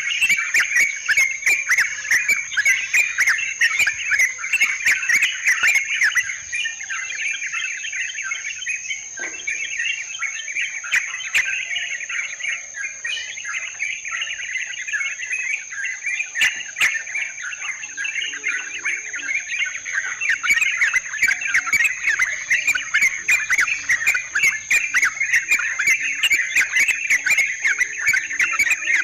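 A flock of yellow-vented bulbuls (trucukan) chattering in a dense, overlapping babble, a little quieter in the middle stretch, over a steady high insect drone.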